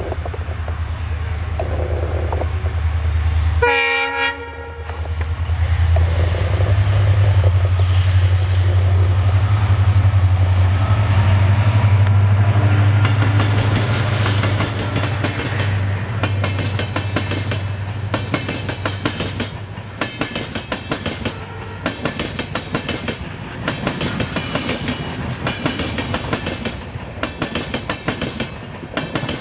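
Passing express train hauled by a diesel locomotive: the engine's deep rumble, a brief horn blast about four seconds in, then the engine growing loudest as it goes by. In the second half the coaches' wheels clatter over the rail joints with a steady clickety-clack.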